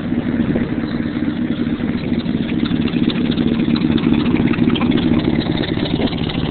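Chevrolet S10 pickup's engine idling steadily while still cold, shortly after a cold start on a frosty morning.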